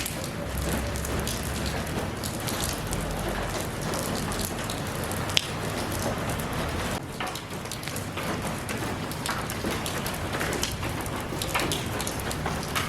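Steady rain falling, with many close, distinct drops pattering on a surface and a sharp single drip about five seconds in.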